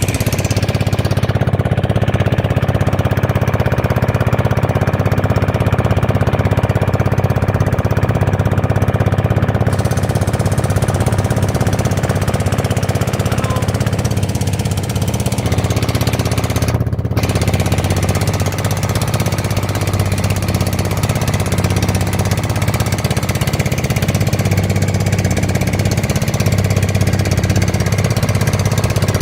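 Boat's inboard or outboard motor running steadily at a constant, low-pitched drone.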